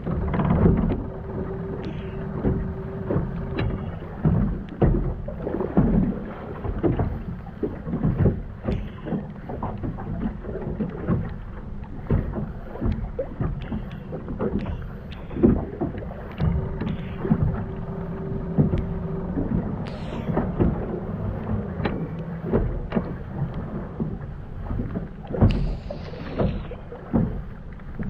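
Fishing boat at sea: a steady low rumble with frequent irregular knocks and thuds.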